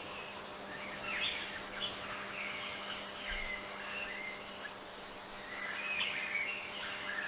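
Rainforest ambience: a steady, high insect drone with birds chirping and calling over it, sharp chirps about two and three seconds in and a louder one about six seconds in.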